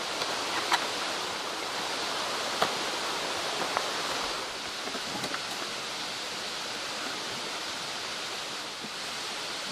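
Mountain stream flowing steadily, with a few small sharp clicks in the first few seconds.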